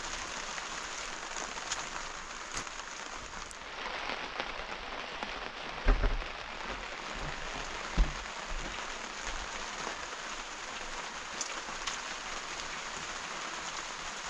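Steady rain falling, an even hiss. Near the middle, two thumps about two seconds apart.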